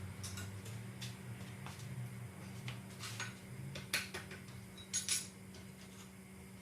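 Scattered metallic clinks and taps of hand tools and metal parts, with a double clink about five seconds in, over a steady low hum.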